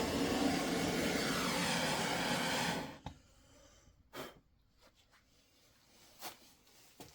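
Handheld gas torch flame hissing steadily as it scorches the surface of an oak sphere, cutting off sharply about three seconds in. A few faint taps follow.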